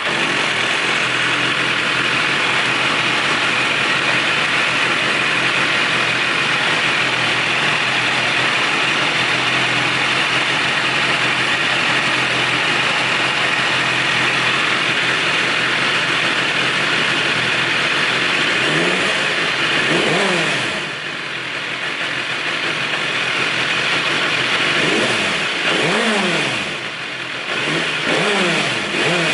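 BMW S1000RR's 999cc inline-four engine idling steadily just after start-up, then revved several times in the last ten seconds, each rev rising and falling quickly in pitch.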